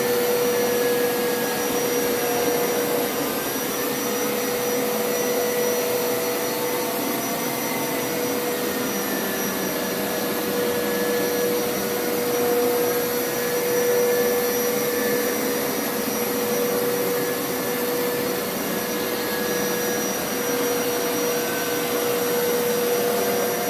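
Hoover Power Scrub Elite carpet washer running continuously, its motor giving a steady whine with a constant tone and fainter wavering tones above it.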